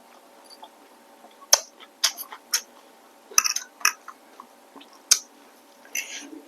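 Close-miked wet mouth sounds of someone eating rice noodles and shrimp: scattered sharp clicks and lip smacks of chewing, some in quick clusters.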